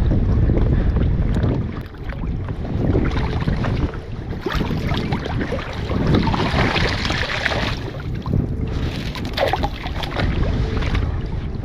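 Wind rumbling on the microphone over water sloshing and splashing around a kayak as a crab trotline is run and crabs are scooped with a dip net. A louder stretch of splashing comes a little past the middle.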